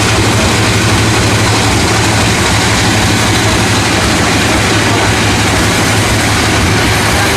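Sawmill machinery running steadily with a loud low hum and a constant hiss over it, without any break or change.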